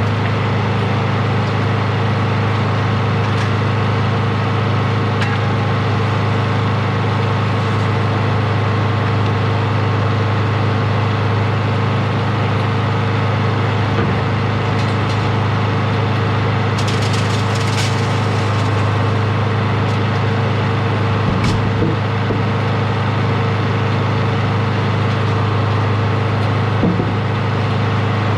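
Sawmill engine running steadily, with a few light wooden knocks and clicks.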